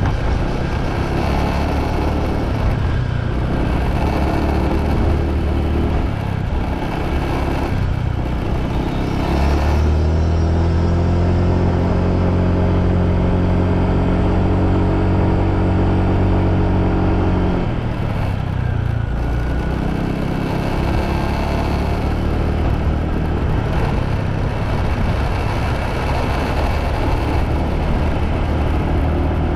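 Motorbike engine running while riding, under steady road noise. The engine note holds louder and even from about a third of the way in until past the middle, then eases off.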